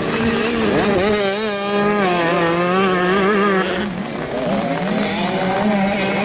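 85cc two-stroke motocross bikes racing, their engines revving up and down as the riders work the throttle.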